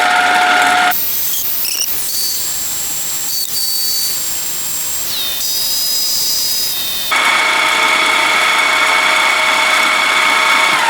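Machine tool cutting steel: a steady motor and spindle whine that switches abruptly about a second in to a hissier cutting noise with high squeals, then back to the steady whine about seven seconds in.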